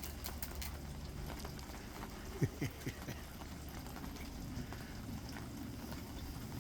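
Rain pattering and dripping as a steady wet ticking, with three short falling squeaks about two and a half seconds in.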